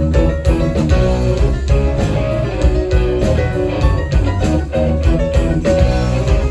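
Live band playing an instrumental passage: guitar lines over bass and a steady drum beat.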